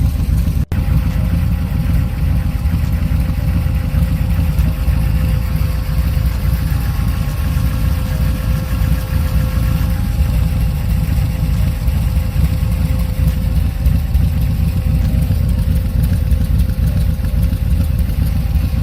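Small-block Chevy 327 V8 with an aftermarket cam in a Ford T-Bucket hot rod, running steadily at idle. The sound drops out briefly less than a second in.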